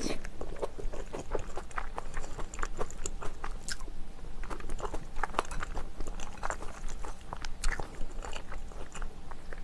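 Close-miked chewing of spicy braised chicken and rice: a steady run of small, irregular wet mouth clicks with some soft crunches.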